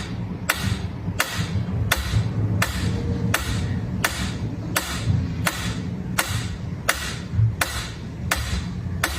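Sharp knocks repeating at an even pace, about three every two seconds, over a low rumble.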